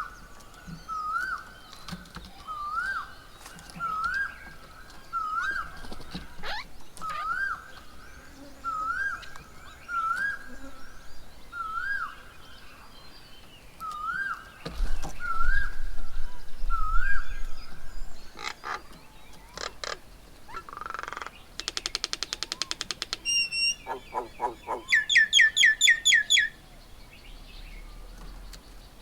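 Birds calling: one bird repeats a short rising whistled note about once a second for most of the first two-thirds. Later come other birds' chirps, a fast trill and a quick run of higher notes, with a low rumble partway through.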